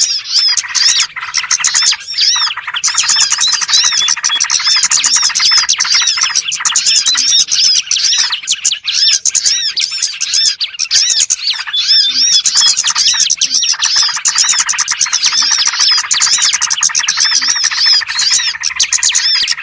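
Dense, unbroken chorus of many small songbirds chirping and twittering over one another, rapid arching notes stacked together. It is a lure call (suara pikat) for small birds, used to draw wild birds in.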